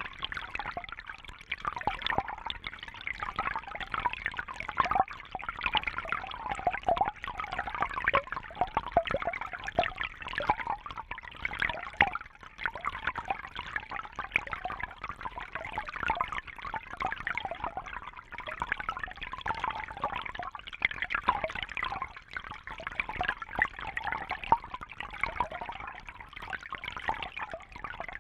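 Water trickling and bubbling steadily, a dense patter of small gurgles and drips with no pauses.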